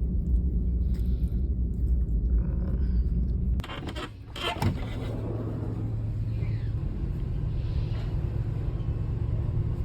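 Steady low rumble that cuts off suddenly about three and a half seconds in. A few sharp clicks and a rustle follow, then a quieter, even low hum.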